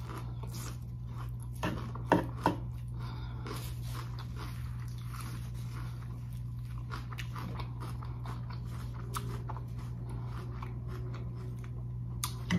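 Close-mouthed chewing of a crisp romaine lettuce salad: wet crunching and crackling throughout, with two louder crunches or clicks about two seconds in. A steady low hum runs underneath.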